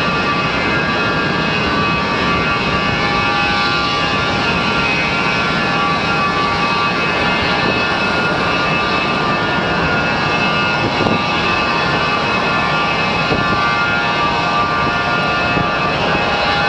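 Gulfstream IV's Rolls-Royce Tay turbofan running steadily in a ground engine test. A loud, even jet rush carries a whine of several steady high tones, with no change in power.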